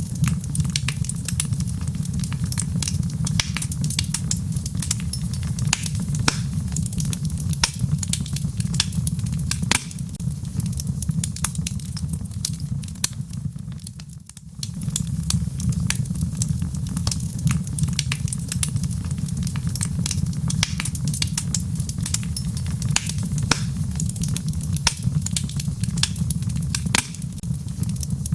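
Logs burning in a fireplace: frequent sharp crackles and pops over a steady low rumble of the fire. The sound dips briefly about halfway through.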